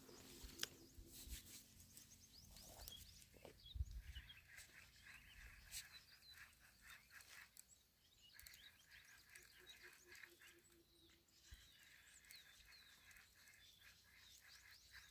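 Faint outdoor ambience of small birds chirping on and off, over a faint steady high hum and a few light knocks.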